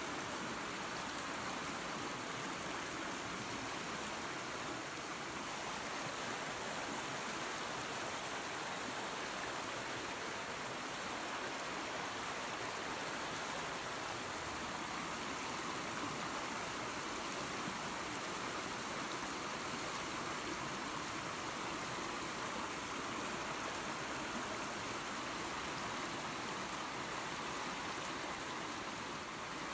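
Creek water and a small waterfall rushing steadily, an even splashing hiss with no breaks.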